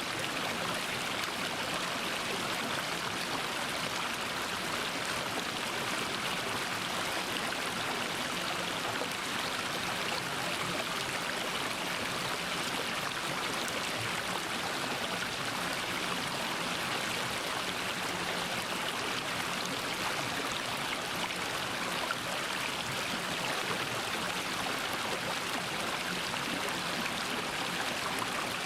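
Mountain stream water flowing and splashing over rocks in a steady, unbroken rush.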